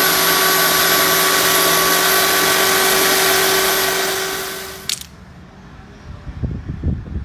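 An electric power tool running steadily with a constant whine, fading away and cutting off with a click about five seconds in, followed by a few low, soft knocks.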